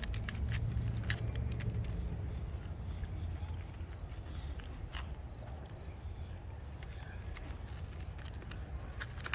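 Outdoor background of insects chirring steadily and high, over a low rumble, with scattered small clicks and crackles.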